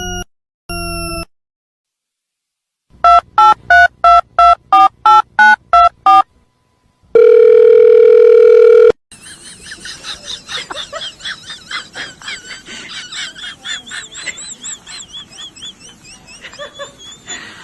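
Dial-up modem connecting: a run of about ten telephone keypad tones dialling, a steady tone for about two seconds, then a long stretch of warbling, screeching handshake noise.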